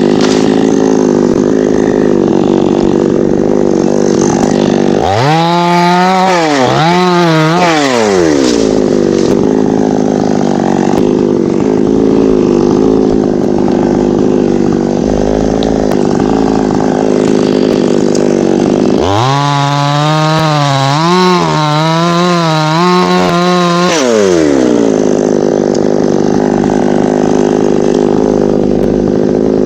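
Two-stroke chainsaw idling, revved up twice: once about five seconds in for a few seconds, and again for about five seconds past the middle. At full speed the pitch wavers as it cuts, then drops back to idle.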